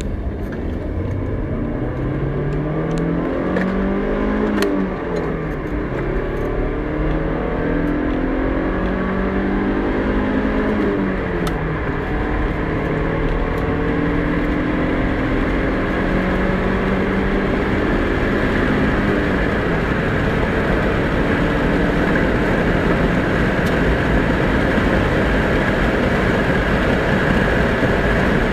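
Daewoo Nubira II car engine revving hard under full acceleration. Its pitch climbs and drops back at gear changes about 5 and 11 seconds in, then pulls up slowly in a higher gear while road and wind noise grows.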